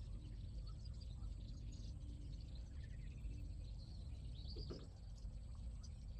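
Small birds chirping and whistling on and off over a steady low outdoor rumble, with a rising whistle about halfway through and a brief cluster of chirps near the end.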